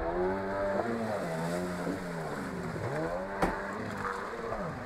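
Jet ski engine running on the water, its pitch rising and falling as the throttle changes, with a single sharp click about three and a half seconds in.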